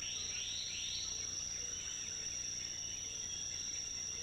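Rainforest insect chorus: a steady, high-pitched insect drone, with three short rising chirps in the first second.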